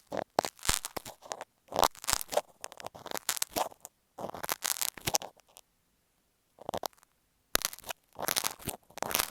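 Marking pins and masking tape worked right against earphone microphones: close, crackly scratching and tapping strokes in short clusters, with brief silent gaps between them, the longest about halfway through.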